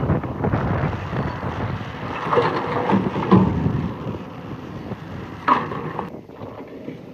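Excavator at work digging rock: engine running under load with the bucket scraping and rattling against stones, and a sharp knock about five and a half seconds in.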